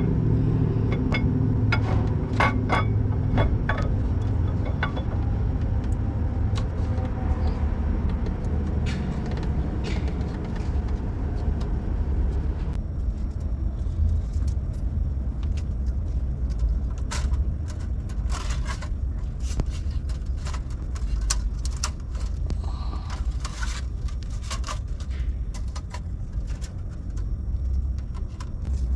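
Metal clinks and rattles, bunched at the start and again in the second half, over a steady low rumble.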